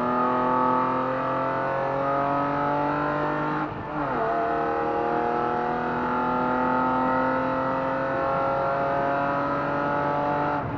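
BMW E36 drift car's engine heard from inside the cabin, pulling hard with the revs climbing steadily. About four seconds in the revs drop for an upshift, then climb slowly again, and they drop once more near the end.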